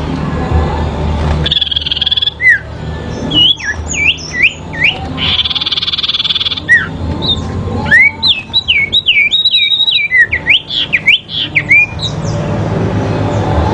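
Sirpu songbirds calling against each other in a duel: quick whistled notes that slide up and down, thickening into a rapid run of calls in the second half, with two short buzzy rattles in between.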